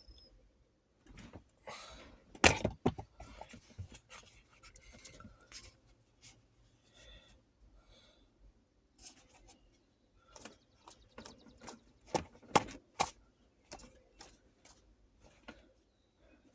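A can of dip pouches being handled and packed: irregular small clicks, taps and rubbing as the can is knocked and shaken so the pouches shift inside, with a few sharper knocks about two and a half seconds in and again around twelve to thirteen seconds in.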